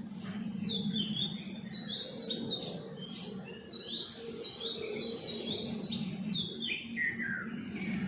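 A bird chirping: a fast series of short, high, repeated down-slurred notes, ending about seven seconds in with a run of notes that fall lower in pitch. A steady low hum runs underneath.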